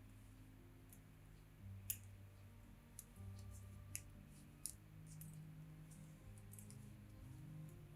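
Stainless steel circular knitting needles clicking softly as stitches are worked: a scattering of small sharp clicks, roughly one a second, loudest about two and four seconds in.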